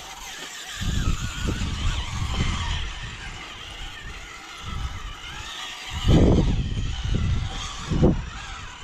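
Off-road competition vehicle's engine revving in uneven bursts, loudest about six seconds in, with wind buffeting the microphone.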